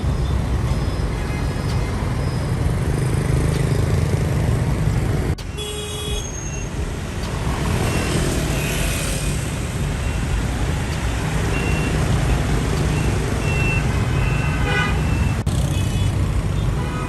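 Road traffic: vehicle engines running with a steady low rumble, with a few short horn toots about six seconds in and again near the end. The sound changes abruptly twice, like cuts between shots.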